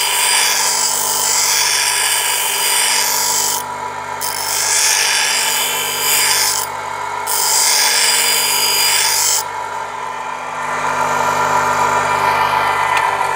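Powered grinding wheel running with a steady motor hum while a wood-carving chisel is pressed against it, giving a high rasping grind in three long passes of two to three seconds with brief breaks, then lighter contact near the end.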